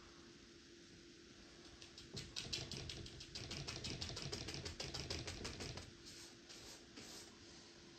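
Paintbrush dabbing rapidly on canvas to paint a forest: a fast run of light taps, about eight to ten a second, starting about two seconds in, then slowing to a few softer strokes near the end. A faint steady hum runs underneath.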